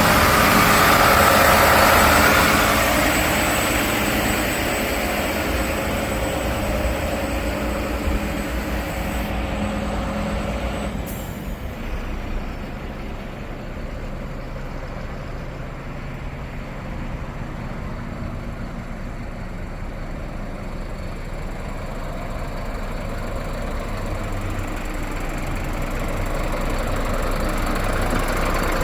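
Iveco Stralis garbage truck with a FAUN Variopress body running, its diesel engine going steadily. There is a loud noisy spell in the first few seconds, the sound thins out from about eleven seconds in, and it builds up again near the end.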